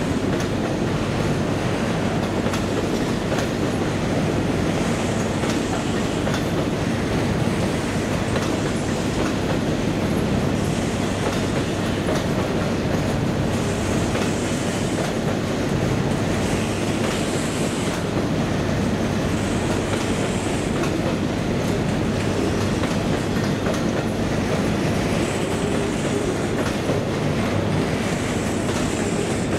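A train running on the rails, with a steady rumble of wheels and running gear that holds at an even level throughout.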